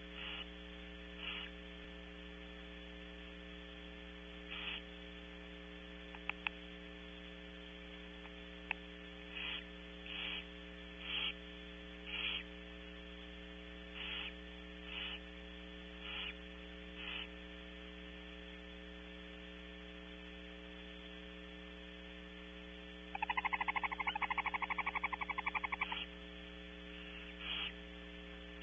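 Steady electrical hum from the nest-box camera's audio, with short hissing calls from barn owls repeating every second or two. Near the end, a rapid run of clicking pulses from the owls lasts about three seconds and is the loudest sound.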